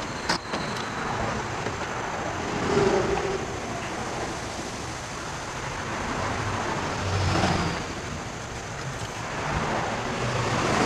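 Steady road traffic noise, swelling twice as vehicles go by, once about three seconds in and again past the middle.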